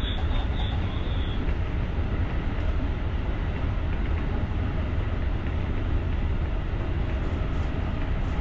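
Electric rapid commuter train running along the line, heard from inside the driver's cab as a steady low rumble of wheels on rails.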